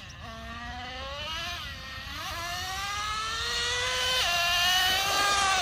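Traxxas Revo 3.3's small nitro engine revving as the RC truck drives, its high buzzing pitch climbing and falling several times. About four seconds in the pitch drops sharply, typical of the two-speed transmission shifting gear. It grows louder toward the end.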